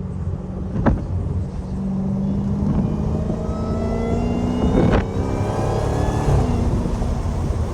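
Straight-piped Dodge Challenger Hellcat's supercharged 6.2-litre V8 pulling under acceleration, its pitch climbing steadily, with a sharp crack about a second in and another about five seconds in.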